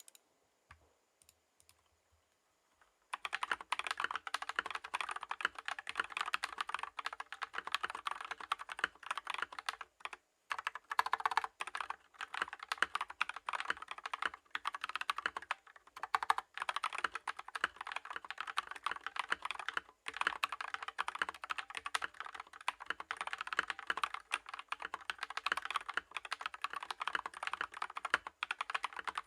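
Fast typing on a Tom680 65% mechanical keyboard with its stock switches and cherry-profile keycaps: a dense run of key clacks that starts about three seconds in, broken by a few brief pauses.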